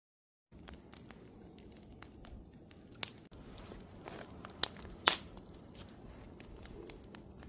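Wood campfire crackling: a faint steady hiss with sharp pops and snaps scattered through it, the loudest about three, four and a half and five seconds in. It starts abruptly about half a second in, after dead silence.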